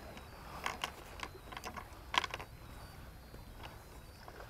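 Scattered light clicks and knocks at an uneven pace, a few a second, of small hard gear being handled.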